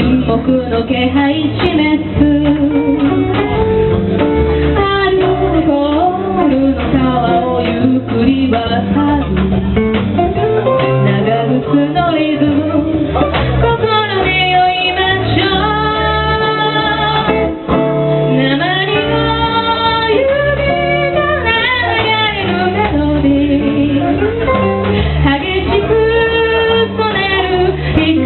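A band performing a song live: a singer's voice with vibrato, over guitar and a steady bass line.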